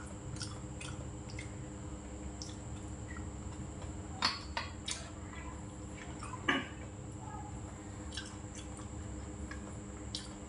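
A person chewing food, with soft wet mouth clicks and smacks over a steady low hum. Two louder sharp clicks come about four and six and a half seconds in.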